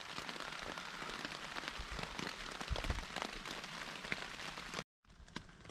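Heavy rain pattering steadily on the Lanshan 1 Plus tent fly, heard from inside the tent as a dense hiss of drop impacts. It cuts off abruptly near the end, and then a lighter patter with a few separate drips follows.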